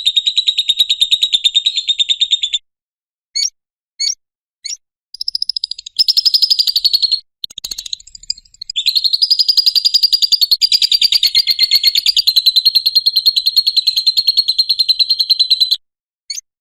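Lovebird's ngekek song: a high, rapid chattering trill. It breaks off after a couple of seconds into a few short single chips, then resumes and runs unbroken for about seven seconds before stopping.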